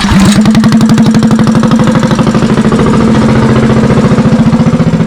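Mini bike's small engine starting abruptly, then running loudly at a steady idle with a rapid, even firing beat.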